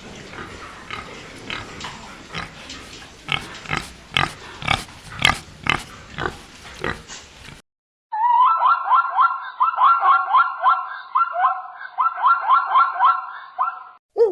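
Animal sounds from two separate clips. First comes several seconds of noisy sound broken by many sharp clicks. Then, after a brief gap, a quick run of short pitched calls, several a second.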